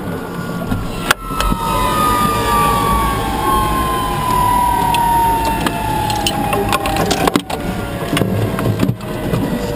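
Unlimited hydroplane's turbine engine heard onboard, its whine falling steadily in pitch as it spools down, over a low rumble with several sharp knocks.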